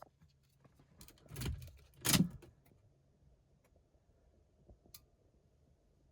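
Two short scraping, rustling noises about a second apart among a few light clicks, over a faint steady low hum; no engine is running yet.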